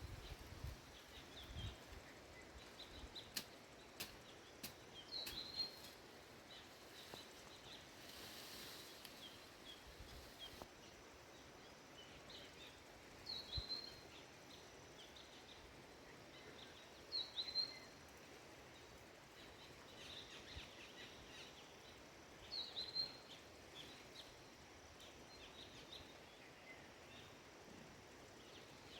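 Faint, short bird chirps, a few seconds apart, about four in all, over quiet outdoor ambience.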